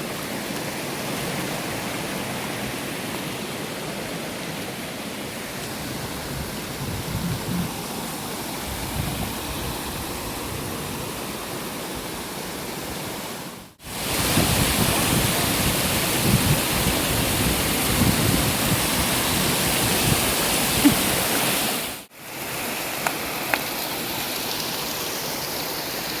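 Water rushing over a small waterfall, a steady rush, louder and brighter in a middle stretch between two abrupt cuts.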